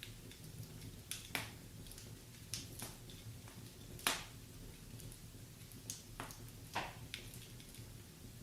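Wood fire in a fireplace crackling: irregular sharp pops and snaps from the burning logs, the loudest about four seconds in, over a low steady rumble.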